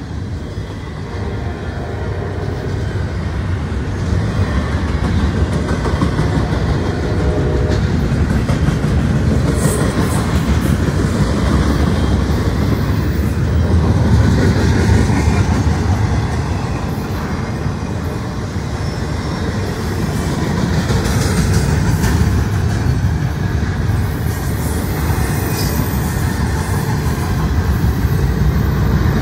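Double-stack intermodal container cars of a Norfolk Southern freight train rolling past at speed: a steady, loud rumble of steel wheels on rail with rattling, growing a little louder over the first few seconds.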